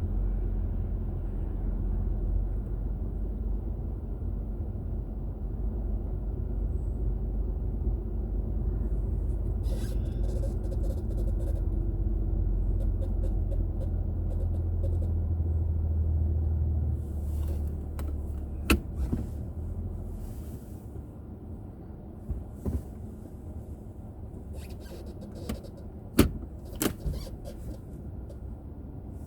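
Low rumble of a car's road and engine noise heard from inside the cabin, heavy for the first two-thirds and then easing off, as a car slows. A few sharp clicks come in the second half.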